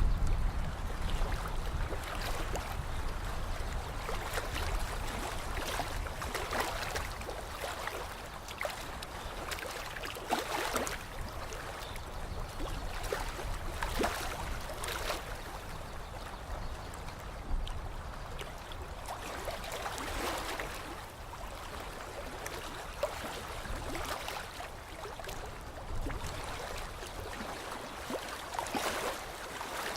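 Lake water lapping and splashing in small, irregular surges every few seconds, over a steady watery wash, with a low rumble in the first few seconds that fades away.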